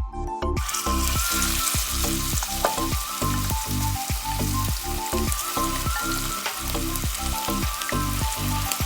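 Marinated boneless chicken pieces sizzling in hot coconut oil in a pan. The sizzle starts about half a second in, as the chicken goes into the oil. Background music with a steady beat plays under it.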